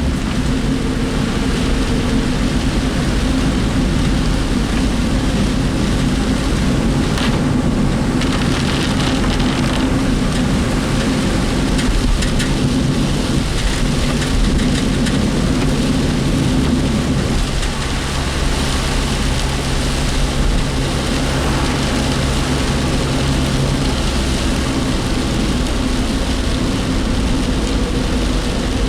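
Heavy typhoon rain on a moving work vehicle, heard from inside the cabin: a steady wash of rain and tyre spray over a low, even engine hum.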